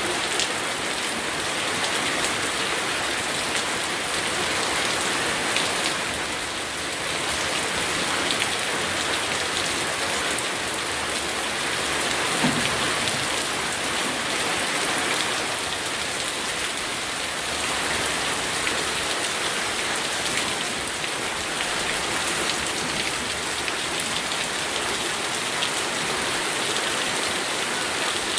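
Steady rain falling, a dense even patter of drops on surfaces, with one brief low thump about halfway through.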